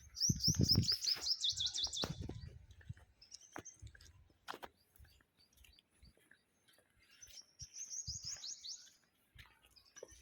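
A songbird singing two fast trills of high, quickly repeated down-slurred notes, one at the start and another about seven seconds in. A low rumbling noise sits under the first trill.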